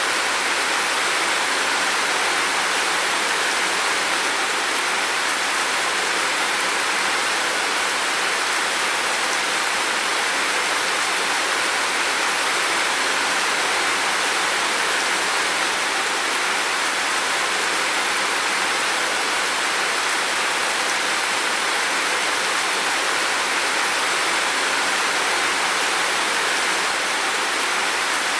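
Heavy rain falling steadily, an even unbroken hiss with no individual drops or gusts standing out.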